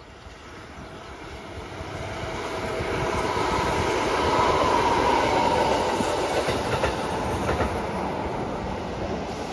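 A three-car Kintetsu Nagoya Line electric local train passing by. It grows louder to a peak about halfway through, then fades as it moves away, with wheels clacking over rail joints as the cars go by.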